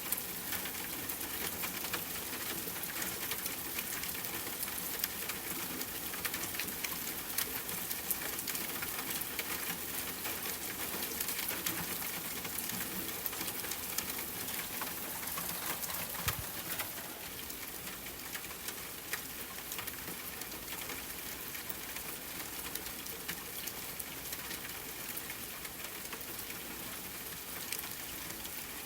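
Steady rain falling, with many small sharp crackles scattered through it from a campfire. The level drops a little about 17 seconds in.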